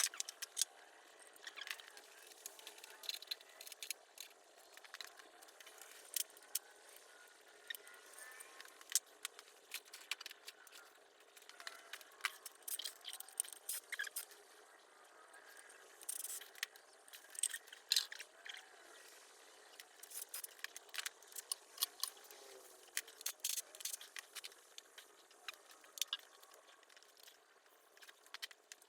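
Irregular light metallic clinks, taps and rattles of tools and parts being handled during an engine teardown, with a few faint squeaks.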